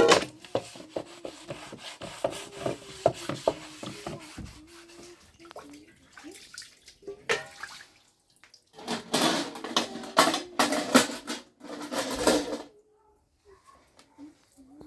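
Water splashing with clinks and clatters of dishes or pots, in a dense run of small knocks at first, then a louder stretch of splashing that stops abruptly.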